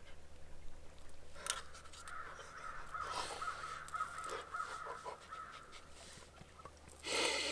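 Faint bird calls that waver and run for several seconds, with a few light clicks. A short rush of noise comes near the end and is the loudest sound.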